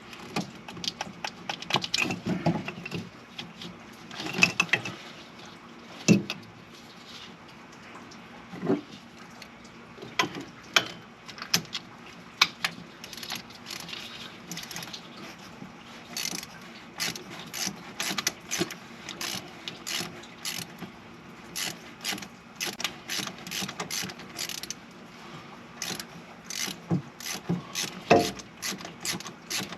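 Hand ratchet wrench clicking in short strokes, with a few scattered knocks of tools on metal. The knocks fall in the first half, and the clicking settles into a steady run of about three clicks a second from halfway on.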